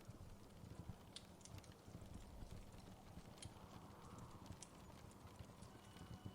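Faint crackling of a wood fire in a fireplace, with scattered sharp pops over a low steady rumble.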